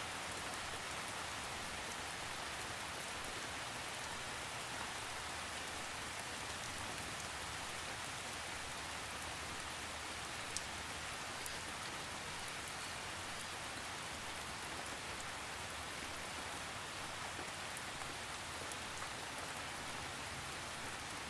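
Steady rain with no thunder, a fine even hiss with scattered drop ticks and one sharper tick about halfway through.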